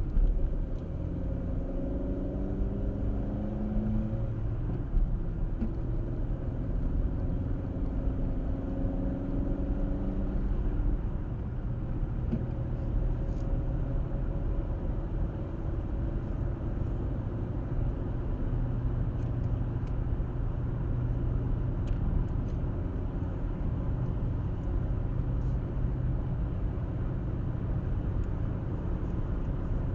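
A car driving, recorded by a dashcam: a steady low rumble of road and tyre noise with engine hum. The engine note shifts in pitch during the first several seconds, then settles into even cruising.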